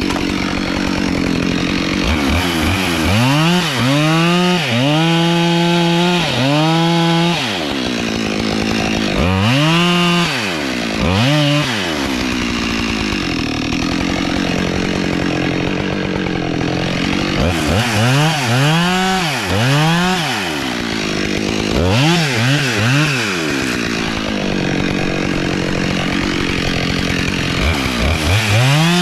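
Gas chainsaw cutting into hardwood tree trunks, its engine revving up and dropping back again and again, with short spells of lower running between the cuts.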